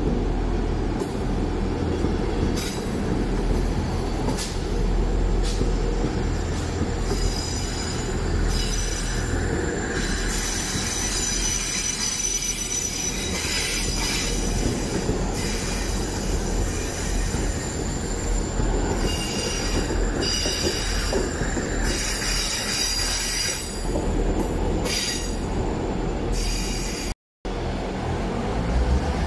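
South Western Railway diesel multiple unit running slowly past the platform, its diesel engines rumbling under high-pitched wheel squeal that comes and goes as it rolls through. The sound cuts out briefly near the end.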